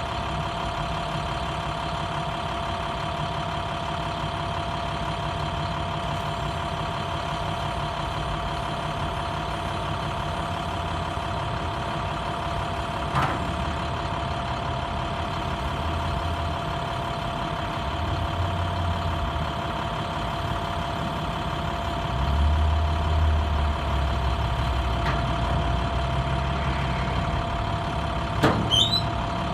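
2013 International 4400 dump truck's DT diesel engine idling steadily, with a constant high whine over the engine note. The low rumble swells now and then in the second half, and there are single knocks about halfway through and near the end.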